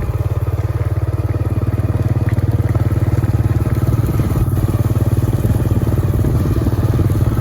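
Small vehicle engine running steadily under way, with a fast, even beat of firing strokes.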